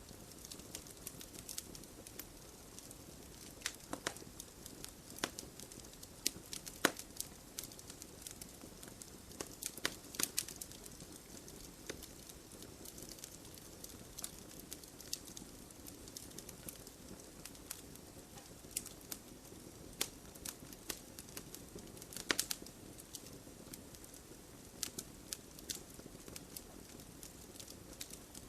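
Wood fire in a fireplace: burning logs crackling with irregular sharp pops over a steady low hiss of flames.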